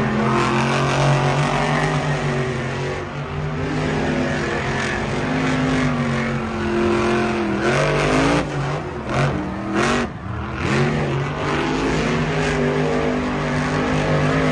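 A vehicle engine running and revving, its pitch rising and falling in glides, with a few sharp knocks or skids about eight to ten seconds in.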